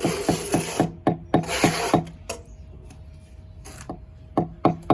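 Bricklaying: a hand tool taps on brick in quick runs of about five taps a second, near the start and again near the end, with two short stretches of scraping over brick and mortar early on.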